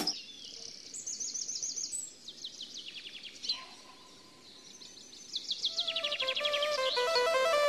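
Small birds chirping in quick, falling high trills, then a faster rising run of chirps. Music with a stepping melody builds in from about six seconds in.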